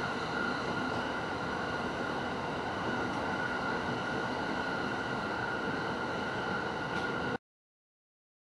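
Steady running noise inside a commuter electric train car, with a faint steady high hum over it. About seven seconds in the sound cuts off abruptly to complete silence.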